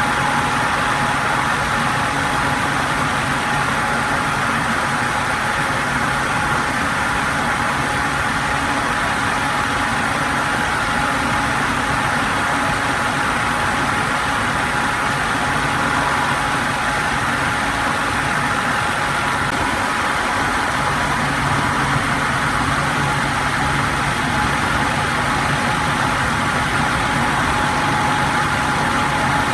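Electric fan running steadily: an even rush of air with a thin, constant motor hum underneath.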